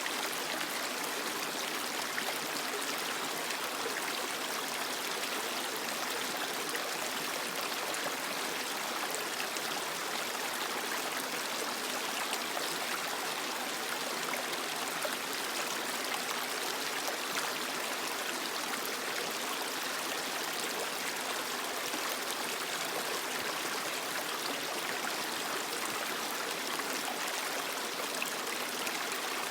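A creek's water flowing and trickling over rocks, a steady rushing with fine splashes.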